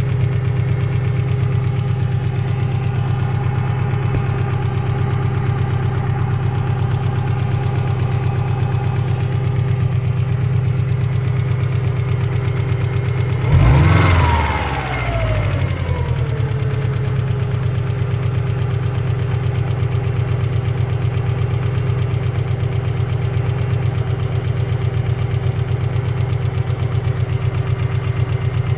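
Car engine idling cold with a knock, revved once briefly about halfway through and then settling back to idle.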